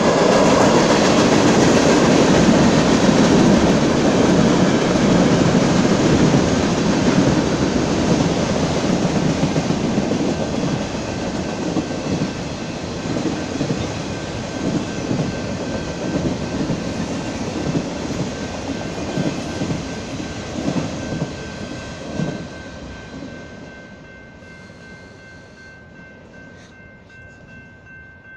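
Freight train of tank cars and autorack cars rolling past, the steady noise of its wheels on the rails loud at first, then fading about 23 seconds in as the last cars go by. A faint steady high tone remains near the end.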